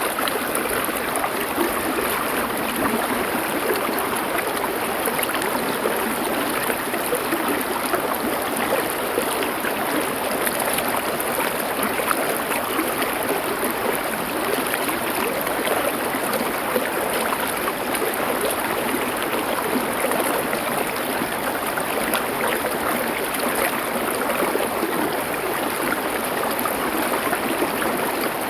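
A stream flowing over stones: a steady rushing, babbling water sound that holds even throughout.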